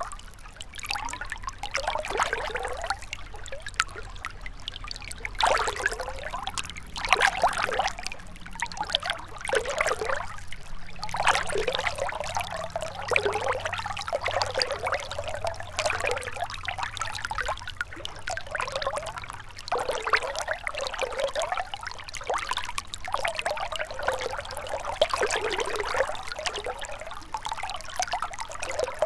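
Shallow river water trickling and gurgling over stones, in uneven swells every second or two.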